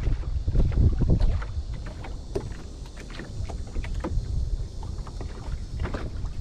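Wind buffeting the microphone on a small boat, a gusty low rumble that is strongest in the first second or so and then eases off, with a few light scattered knocks.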